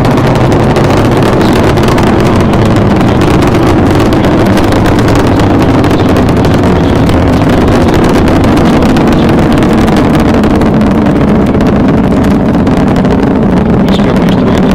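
Space Shuttle Discovery's solid rocket boosters and main engines firing during ascent, about half a minute after liftoff: a loud, steady, heavy rumble with no breaks.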